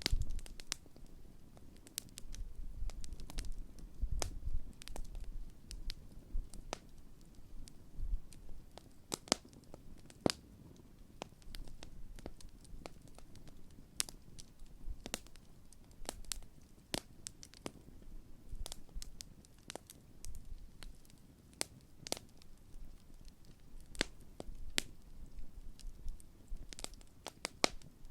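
Large wood campfire burning, with irregular sharp pops and crackles over a low rumble of the flames.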